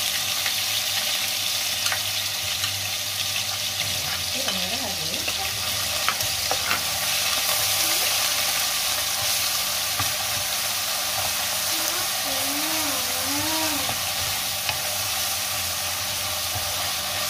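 Pounded garlic, shallots and ginger with curry leaves sizzling in hot oil in a wok, stirred with a wooden spatula that gives occasional scrapes and taps against the pan. This is the aromatics being sautéed until fragrant.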